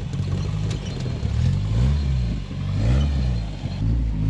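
Off-road rig's engine revving, its pitch rising and falling several times.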